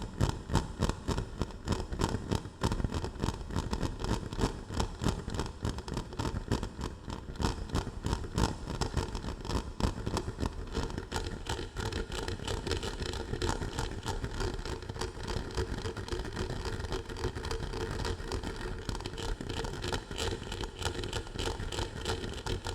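Close-miked ASMR trigger sounds: a dense, continuous run of rapid scratching and crackling clicks.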